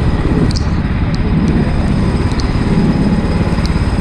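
Go-kart engine running loud and close, heard from on board, its pitch wavering slightly, with faint sharp ticks now and then.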